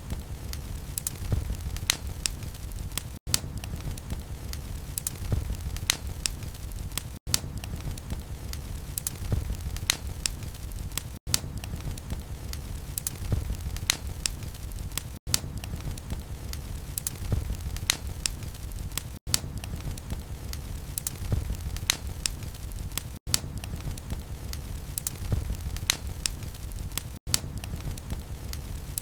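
Log fire burning in a fireplace: a low rumble of flames with frequent sharp crackles and pops from the wood. The same few seconds of crackling seem to repeat, with a brief dropout about every four seconds.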